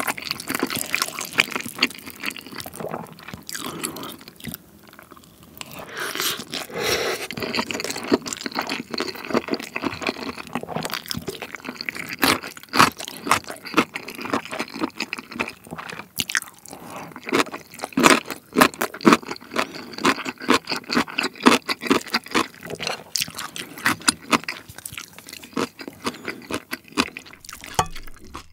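Close-miked chewing of fried rice and crunchy cubed radish kimchi (kkakdugi), with many sharp crunches, thickest in the second half, and a wooden spoon scraping the pan.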